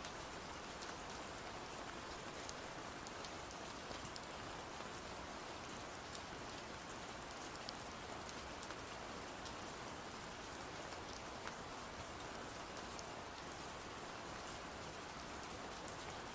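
Steady rain falling on a surface, with scattered light ticks of individual drops.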